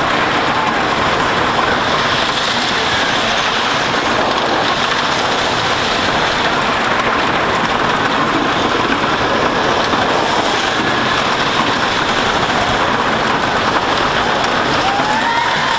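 Wooden roller coaster train running along its track at speed, its wheels rumbling and clattering on the wooden track as air rushes past, loud and continuous.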